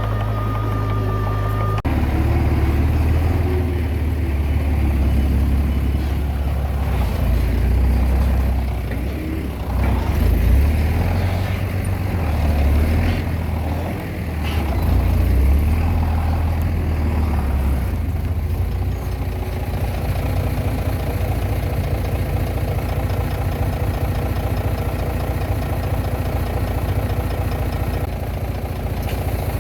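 Diesel engine of a Komatsu D20P bulldozer running. Its pitch and load rise and fall through the middle stretch as it works, then settle to a steady run.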